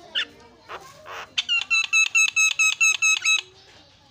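Javan myna singing: a few short scratchy notes, then a fast run of about a dozen identical ringing notes, roughly six a second, lasting about two seconds before it stops.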